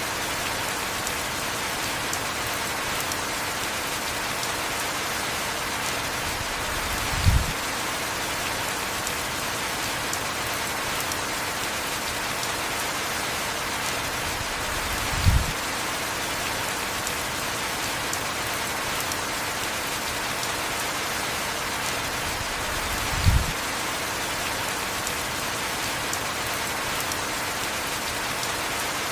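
Heavy rain falling steadily, an even hiss. Three short, low thumps break through at even intervals about eight seconds apart.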